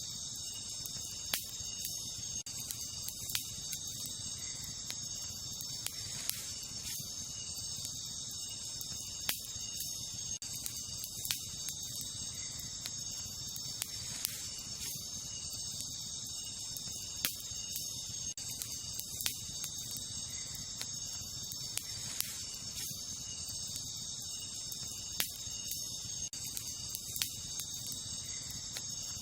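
Wood campfire crackling, with sharp pops every second or two, over a steady high chorus of night insects.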